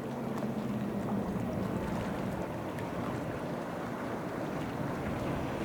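Motorboat engine running as a boat passes through the channel, its steady low hum fading away about two seconds in, over constant wind and water noise.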